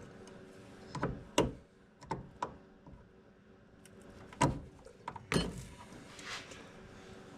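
A string of sharp knocks and clunks from a car's tail light assembly being worked loose from the body by hand, followed by a short scraping rattle a little past five seconds in.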